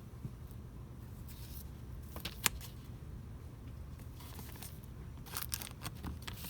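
Steady low hum of a shop's room tone with scattered light clicks and rustles of items being handled: one sharp click about two and a half seconds in and a quick cluster of clicks near the end.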